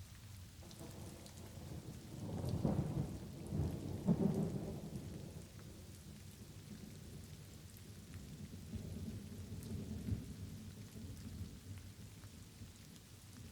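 Light rain falling steadily while thunder rumbles. The rumble builds about two seconds in, is loudest around the third and fourth seconds, then rolls on more softly and fades.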